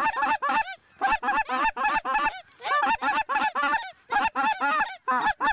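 Rapid, overlapping Canada goose clucks and honks, many short notes in quick clusters with brief breaks between them.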